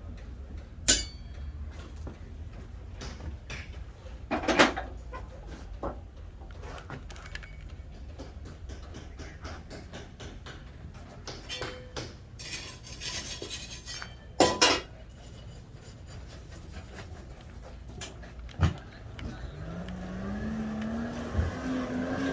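Metal tools and iron being handled in a blacksmith's shop: scattered knocks and a few sharp metallic clanks, the first one ringing. Near the end a forge blower starts up, its whine rising in pitch and getting louder as air is driven into the fire.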